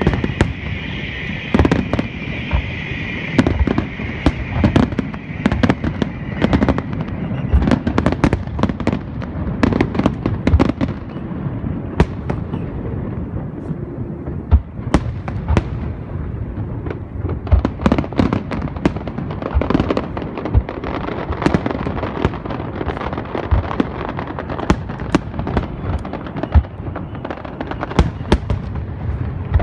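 Aerial fireworks display: a dense, continuous barrage of shell bursts and bangs, several a second, with low rumble between them. A steady high hiss runs under the bangs and stops about seven seconds in.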